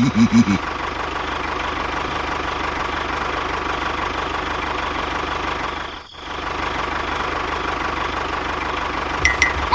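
An engine running steadily, with a brief drop in sound about six seconds in.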